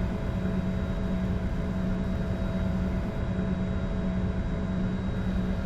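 Steady cockpit noise of a Bombardier Challenger 605 taxiing with its two rear-mounted GE CF34 turbofans at idle: an even hum with a low drone and fainter steady tones above it.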